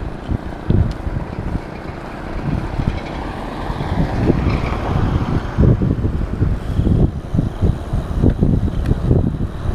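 Wind buffeting a moving microphone in irregular low gusts, with a smoother rushing swell about halfway through.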